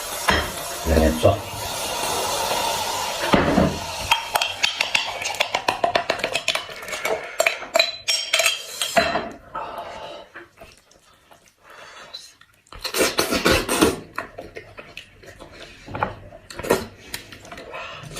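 Cutlery clinking and scraping against dishes during a meal, in quick runs of sharp clicks with a quieter pause a little past the middle.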